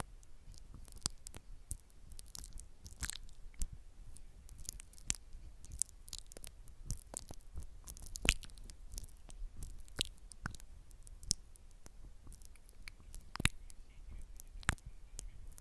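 Close-miked ASMR skincare-spa trigger sounds: irregular small clicks and crackles throughout, with one sharper click a little after eight seconds in.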